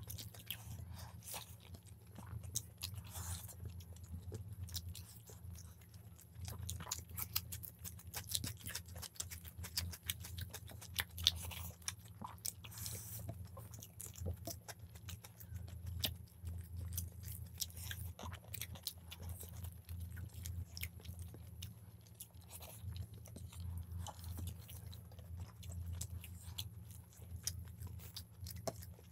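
Close-up chewing and biting as two people eat chicken biryani with their hands: soft, irregular mouth clicks and crunches, with fingers working the rice on the plates, over a steady low hum.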